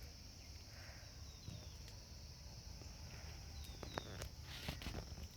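Outdoor garden ambience: a steady, high insect drone, with a few short, falling bird chirps about a second in and again near four seconds, and scattered light clicks.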